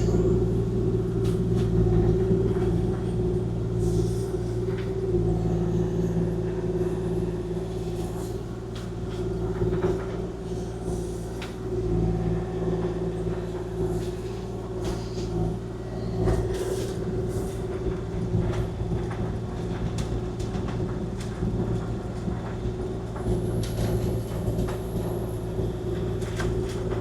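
Kubota KX040-4 compact excavator's diesel engine running steadily at working speed, with scattered short knocks and clunks as it digs and dumps wet dirt.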